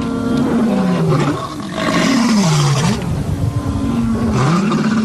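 A lioness and a male lion roaring: a series of deep, rough calls, about one a second, each gliding down or up in pitch. This is territorial roaring that announces their presence.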